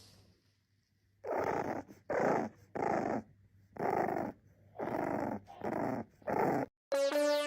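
A dog growling in about seven short bursts, a little under a second apart; music comes in near the end.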